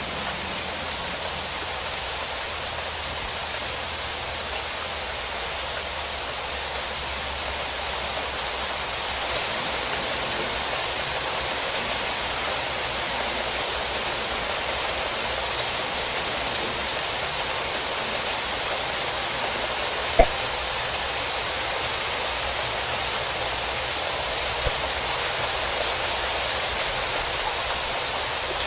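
Heavy rain pouring down steadily in a storm, with one short sharp knock about twenty seconds in.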